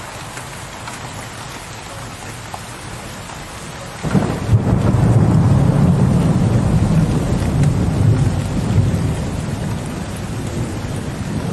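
Steady rain pattering, with a low rumble of thunder that breaks in suddenly about four seconds in and keeps rolling, much louder than the rain, to the end.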